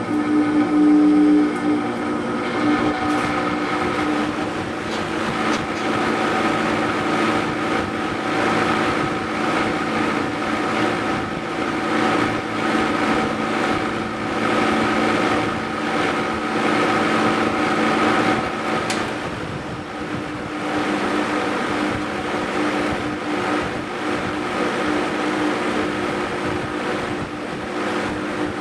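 Vintage Duralux box fan's Westinghouse fractional-horsepower motor running, with a steady multi-tone hum over the rush of air from the blades, coming up sharply at the start. The motor has developed a noise or vibration, heard on high speed, whose cause the owner cannot place.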